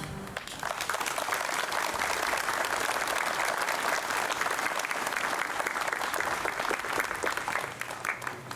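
Crowd applauding, with many hands clapping at once; it starts as the choir's song ends and thins out near the end.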